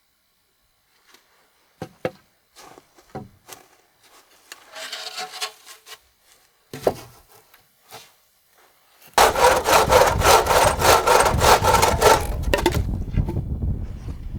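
Hand saw cutting through wood: a few scattered knocks, then from about nine seconds in a loud run of quick, even back-and-forth strokes that eases off near the end.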